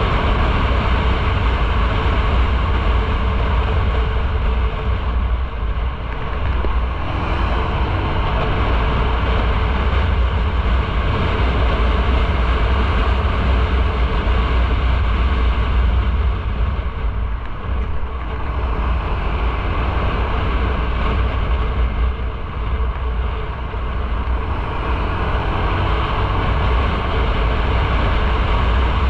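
Motorcycle on the move: engine and road noise under a steady low wind rumble on the microphone, easing slightly a few times.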